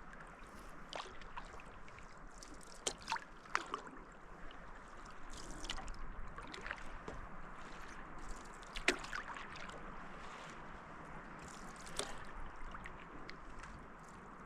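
Paddle strokes dipping into river water from a stand-up paddleboard: irregular small splashes and drips over a steady wash of moving water, the sharpest splash about nine seconds in.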